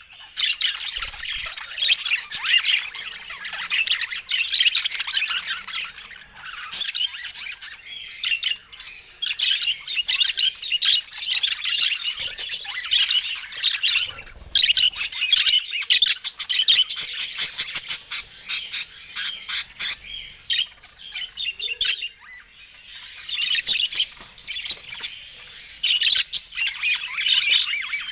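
Budgerigar chatter: fast, continuous warbling and chirping, broken by brief lulls about halfway through and again near three quarters of the way.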